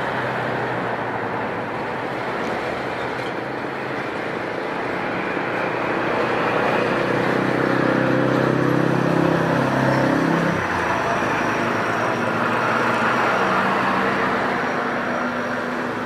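Steady roar of road traffic, with a motor vehicle passing close by. Its engine note swells, then drops in pitch as it goes past about ten seconds in.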